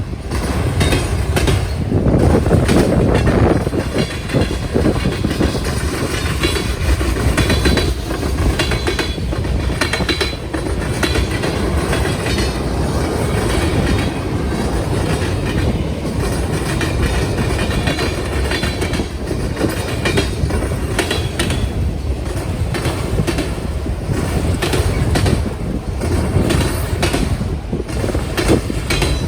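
Train passing over a railway diamond crossing: a continuous rumble of rolling wheels, with a rapid, irregular clatter of wheel impacts as the cars cross the gaps in the diamond.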